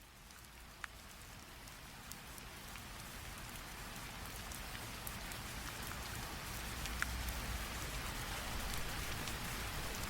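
Recorded rain sound effect fading in: a steady hiss of rainfall growing gradually louder, with a few distinct drop ticks.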